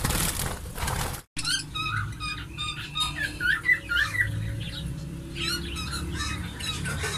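A flock of small pet parrots chattering, with many quick chirps and squawks overlapping. The sound cuts out for a moment just over a second in, then the chatter carries on.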